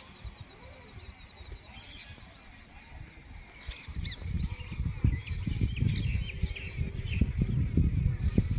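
Small birds chirping and twittering repeatedly, joined about halfway through by a low, uneven rumbling noise that grows louder.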